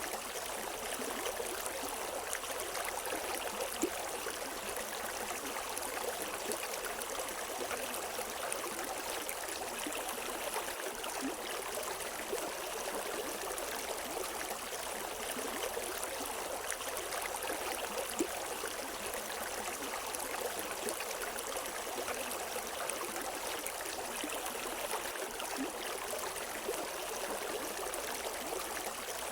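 River water running over rocks: a steady rush with small splashes and gurgles, and no birdsong.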